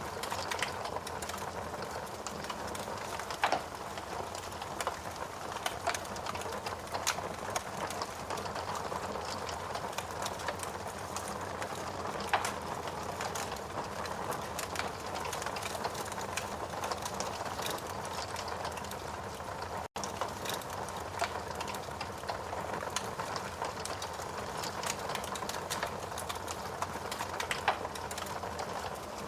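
Steady rain with a wood fire crackling, sharp pops standing out every few seconds. The sound cuts out for an instant about twenty seconds in.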